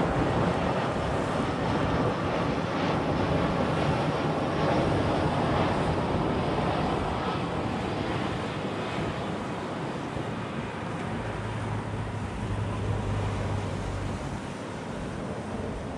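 Jet noise from an arriving Airbus A320-214's CFM56 turbofan engines: a steady rushing rumble that slowly fades as the airliner moves away.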